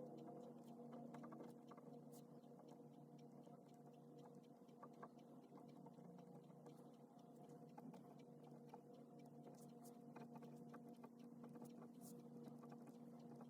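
Faint scratching and light taps of a pen writing on paper, scattered and irregular, over a steady low electrical hum.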